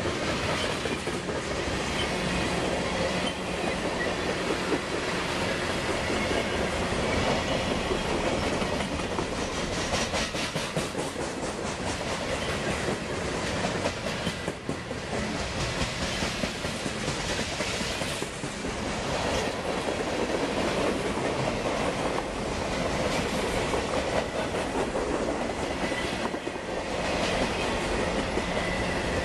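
Freight cars of a CSX manifest train (tank cars, lumber-loaded flatcars and boxcars) rolling steadily past: a continuous rumble of steel wheels on rail, with wheels clicking over the rail joints.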